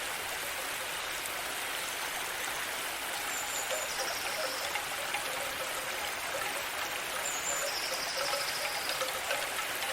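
Steady rushing and trickling of running water, with crickets giving short high trills about every four seconds.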